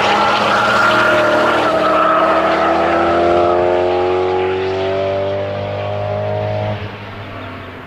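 Nissan GT-R's twin-turbo V6 pulling hard away from the camera, its pitch rising steadily for about seven seconds, then falling away abruptly as the throttle comes off. A high tyre squeal fades out over the first three seconds.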